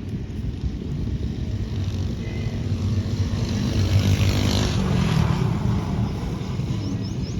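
A motor vehicle passing, its engine rumble swelling to its loudest about four to five seconds in, then easing off.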